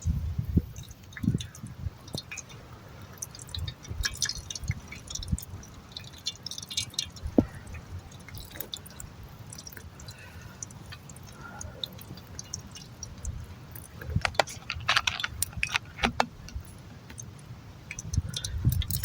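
Scattered rustles and light clicks of small objects being handled, with one sharper click about seven seconds in and a low rumble near the start and end.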